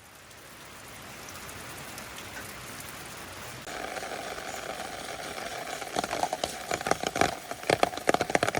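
Steady rain falling, fading in at the start. From about six seconds in, heavy drops tap sharply and irregularly.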